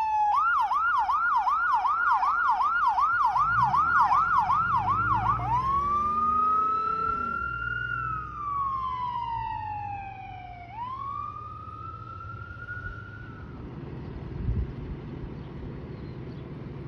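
Electronic siren of an emergency vehicle: a falling wail switches to a fast yelp, about three rises a second, then at about five seconds back to a slow wail that rises and falls and stops about thirteen seconds in. Low engine rumble runs under it, and after the siren stops only low vehicle noise remains.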